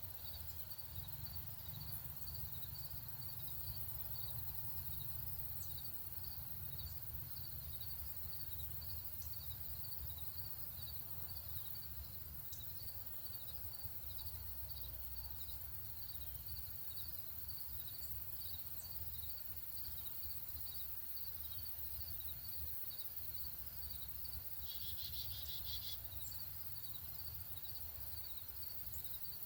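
Insect chirping steadily in an even, pulsing rhythm of a few pulses a second, over a low outdoor rumble. About 25 seconds in, a brief, louder rasping call joins it for about a second.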